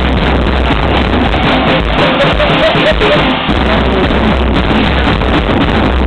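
Drum kit being played loudly and continuously.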